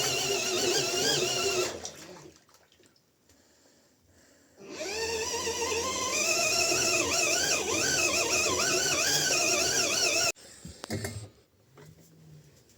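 Washing machine drum motor turning the drum in wash bursts, its pitch wavering. It winds down about two seconds in, pauses, then starts up again with a rising whine and stops abruptly near the end, followed by a few faint knocks.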